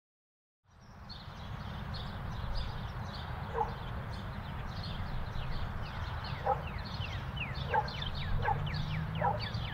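Birds chirping in many short falling notes over a steady low rumble, with a few short, lower, louder calls. It fades in at the start.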